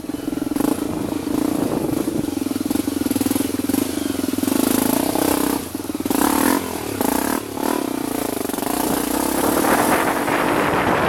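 Motocross bike engine running and revving, its pitch rising and falling, with a couple of short throttle cuts about halfway through and a climb in revs near the end.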